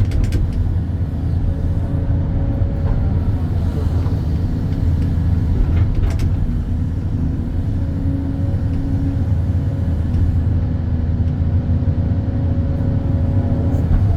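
Excavator's diesel engine running steadily under working load while digging, with a faint hydraulic whine that comes and goes.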